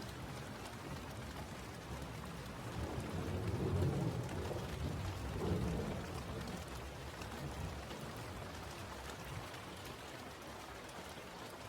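Steady rain falling, with a low rumble of thunder swelling a few seconds in and dying away.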